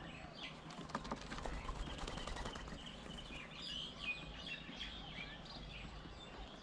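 Several birds chirping and calling in short, repeated notes, with a few sharp taps about a second in and a low steady background hum.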